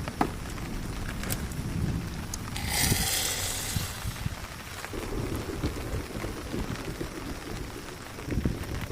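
Rain falling steadily, with scattered taps and one brief hissing rustle about three seconds in.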